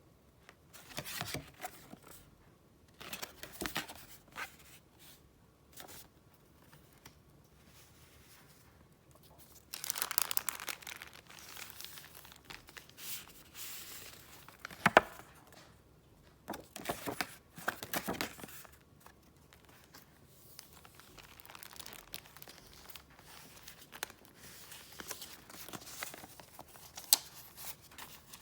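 Paper and wrapping being handled close up: bursts of crinkling and rustling, several times, with a couple of sharp taps or clicks in between.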